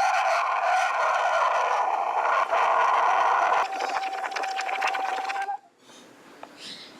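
Steam wand of a Coffeemax espresso cappuccino machine frothing milk: a loud steady hiss that, a little past halfway, changes to a steady whistle-like tone with crackling, then cuts off suddenly near the end as the steam is shut off.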